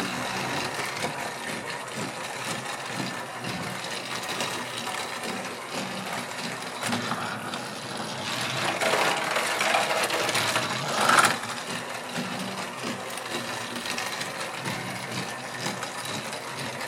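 Battery-powered Trackmaster toy train's small geared motor whirring steadily as it runs along plastic track. It gets louder about eight seconds in and ends that stretch with a sharp plastic clack about eleven seconds in, then goes back to the steady whir.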